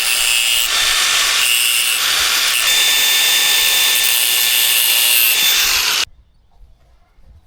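Angle grinder cutting through a steel dirt bike chain link, a loud steady grinding hiss with a high whine that stops suddenly about six seconds in.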